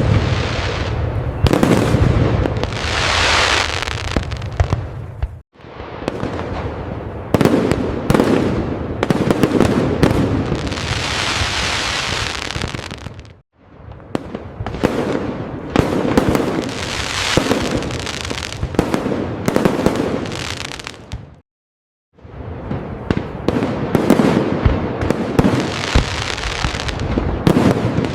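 Fireworks display: booms and crackling bursts packed close together, with the sound cutting out briefly three times, about every eight seconds.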